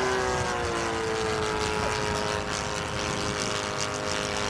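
Engine and propeller of a giant-scale radio-controlled Cessna 150 model in flight, a steady drone whose pitch sinks slightly over the first second and then holds.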